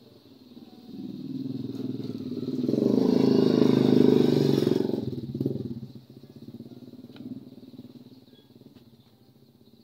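A motorcycle engine passing by: it grows louder from about a second in, is loudest around four seconds in, then fades away by about six seconds in.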